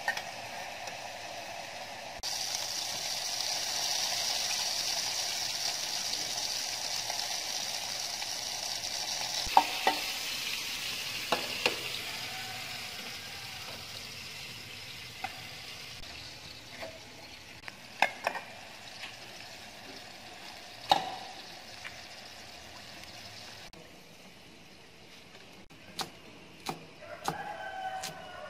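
Chicken pieces frying in a steel wok, a steady sizzling hiss that gets louder about two seconds in and slowly fades. After that come scattered sharp knocks and clinks, and near the end a cleaver chops quickly on a wooden board.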